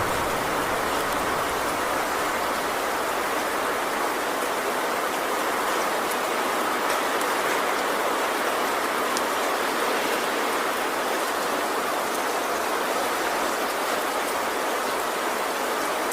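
Steady heavy rain drumming on a metal roof: a dense, even hiss with faint sharp drop ticks scattered through it.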